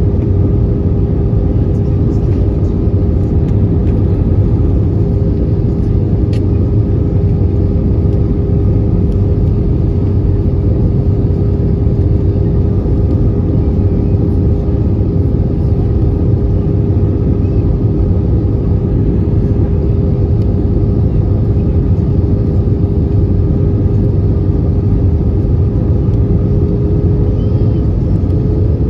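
Airbus A320-214 cabin noise in flight: the steady drone of its CFM56 jet engines and airflow heard from a window seat, with a constant hum that edges up slightly in pitch near the end.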